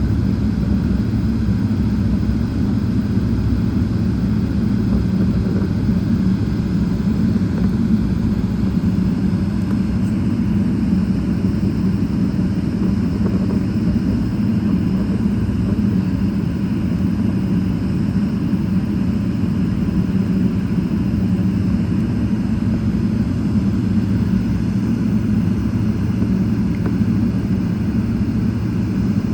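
Steady low rumble of a Boeing 777-300ER's GE90 jet engines and airflow, even and unchanging throughout.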